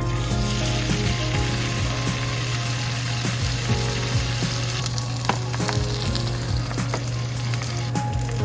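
Food frying in a pan, with a steady sizzle and a few sharp clicks of a utensil against the pan.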